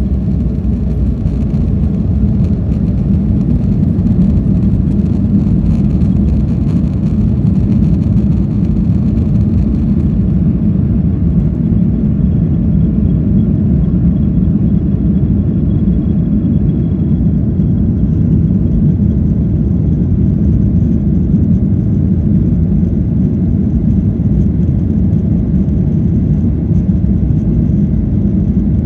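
Airliner taking off, heard from inside the cabin: a loud, steady low rumble of the jet engines and airframe. The higher hiss drops away about a third of the way through, and a faint high whine comes in later.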